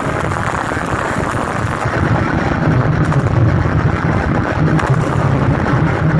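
Very loud sound system playing bass-heavy music, overloading the microphone into a distorted, pulsing rumble.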